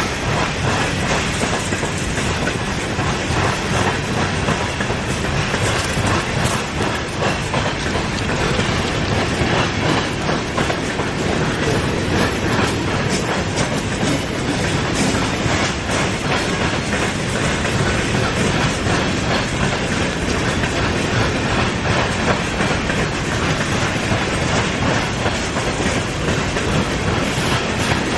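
A freight train's grain cars rolling steadily past, their steel wheels clicking over rail joints with a continuous clickety-clack.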